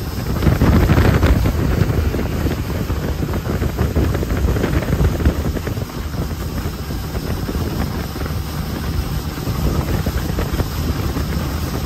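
Wind buffeting the microphone aboard a jet boat under way, over the boat's running noise, louder about a second in.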